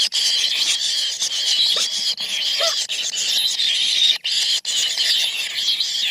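Four bird nestlings in a nest hole calling together in a continuous, high, noisy chorus, the clamour of chicks begging, with a couple of brief breaks about four seconds in.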